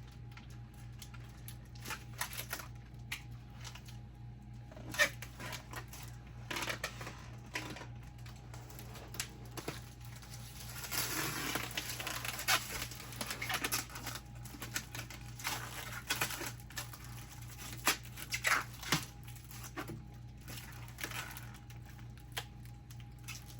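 Protective plastic film being peeled off a glossy plastic fridge body, with scattered crackles and clicks and a longer tearing hiss a little before halfway through.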